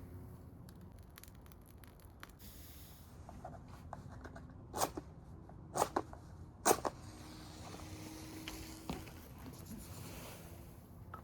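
Wood bonfire crackling, with scattered small snaps and three louder pops about halfway through.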